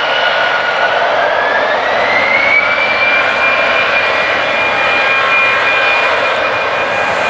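Jet airliner engines running loud, with a high whine that rises in pitch about two seconds in and then holds steady over the engine noise.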